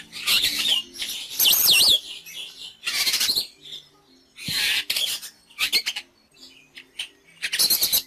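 Common starling song: a run of harsh, rasping calls broken by a wavering high whistle about a second and a half in, over soft background music.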